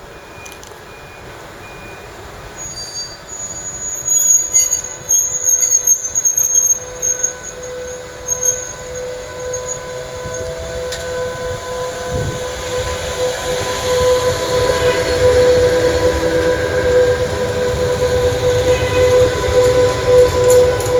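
Electric train at a station platform: high-pitched wheel or brake squeals for the first several seconds. Then a steady electric whine grows louder with rising rumble to the end.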